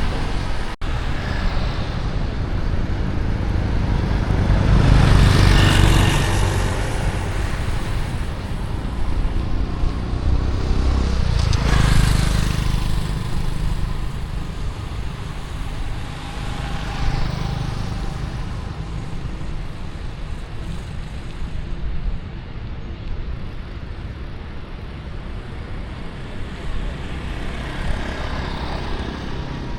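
City street traffic heard from a bicycle: a steady mix of engines and tyres, with vehicles passing close by, the loudest about five and twelve seconds in.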